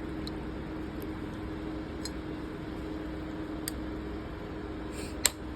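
A dish of small metal lighter parts soaking in rubbing alcohol is handled, giving a few faint clicks and one sharp click near the end, over a steady low hum.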